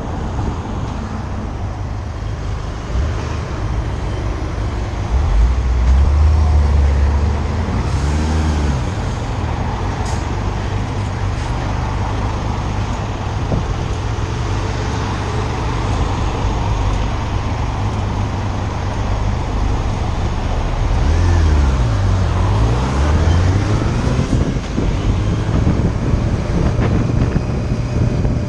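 Motorcycle engine running on the move, under heavy wind rush on the microphone. About two-thirds of the way through, the engine note drops and climbs again, as when easing off and opening the throttle.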